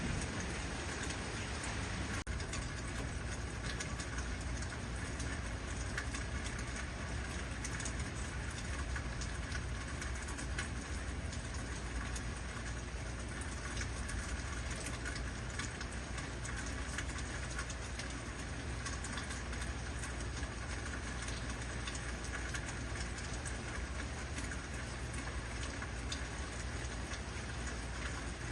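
Heavy rain falling steadily, a dense even hiss with a constant low rumble underneath.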